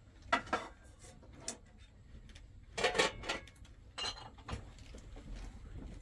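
Dishes and utensils being handled, with a few short clinks and clatters at irregular moments.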